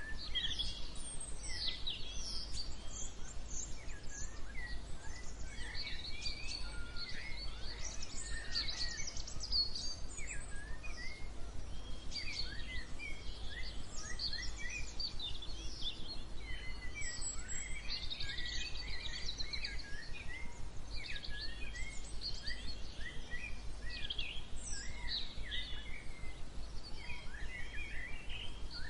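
Dawn chorus of many songbirds chirping and whistling, short overlapping calls with no pause, over a steady low rumble.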